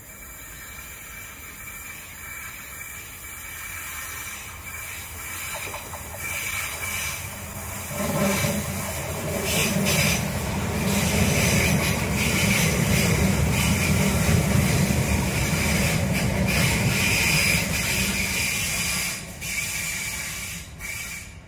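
Multi-coach passenger train approaching on a curve and passing close beneath, wheels running on the rails. It grows louder over the first eight seconds, stays loud for about ten seconds as it goes by, and falls away quickly near the end.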